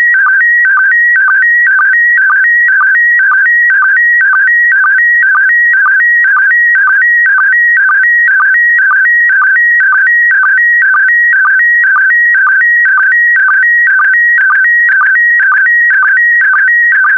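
Slow-scan television (SSTV) signal in PD120 mode, sending an image: a loud, steady electronic warble, broken by a short lower blip about twice a second. Each blip is a line sync pulse, marking the start of the next pair of picture lines.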